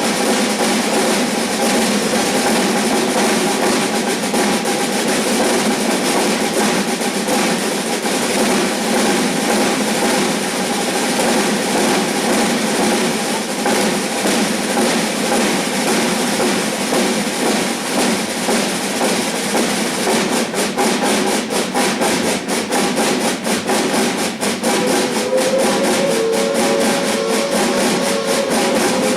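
Drum ensemble playing a fast, unbroken drum-roll pattern that imitates a moving train. A steady pitched tone joins about three-quarters of the way through.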